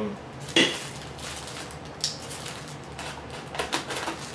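Handling noise from unpacking a monitor box: a sharp knock about half a second in, a rustle of packing around two seconds, then a quick run of small knocks and clicks near the end as accessory boxes and packing pieces are moved.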